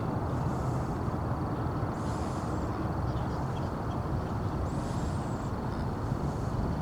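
Steady low rumble of wind buffeting the microphone, with a soft hiss about every two to three seconds.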